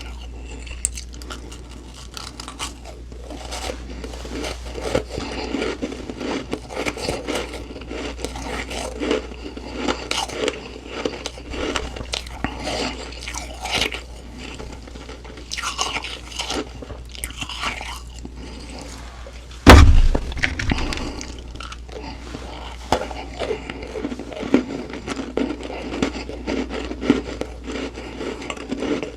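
Close-miked chewing of humidifier frost ice: dense, irregular crunches and crackles of packed frost being bitten and ground between the teeth. A single loud thump about two-thirds of the way through stands out above the crunching.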